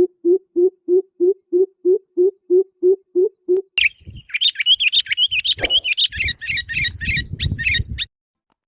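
Animal calls: a run of low, evenly spaced hoots, about three a second, gives way a little under four seconds in to a bird's rapid high chirping. The chirping cuts off suddenly near the end.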